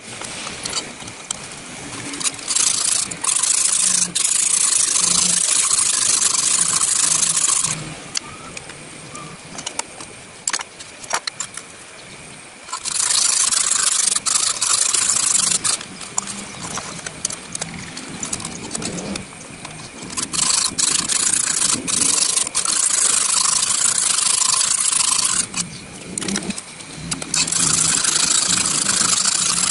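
A sharpening stone in a guided knife-sharpening jig rubbed rapidly back and forth along a kitchen knife's edge, a hissing rasp that comes in several long stretches of strokes with short pauses between.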